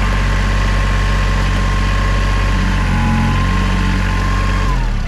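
A Kubota L2800 tractor's three-cylinder diesel engine runs steadily, with a thin high whine over it. Near the end the engine drops in speed and the whine falls in pitch with it.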